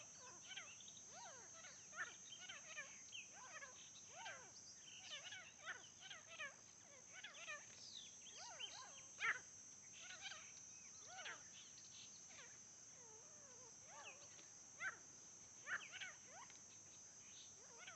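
Faint, overlapping bird chirps and short whistled calls, many in quick succession at varied pitches, over a steady high-pitched hiss.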